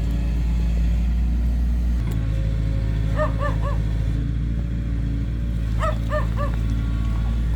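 A heavy diesel engine of the earthmoving machinery running steadily, its note changing about two seconds in. A dog barks in two quick runs of three or four barks, about three seconds in and again about six seconds in.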